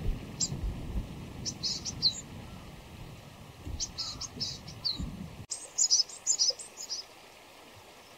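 Small wild songbirds calling in short, high chirps, coming in quick clusters, with the loudest cluster about two thirds of the way through. A low rumble lies under the first part and stops abruptly.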